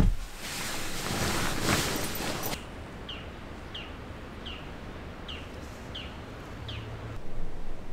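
A bird calling repeatedly, six short downward-sweeping chirps at an even pace, over a quiet outdoor background. Before it, for the first two and a half seconds, a louder rustling hiss that cuts off suddenly.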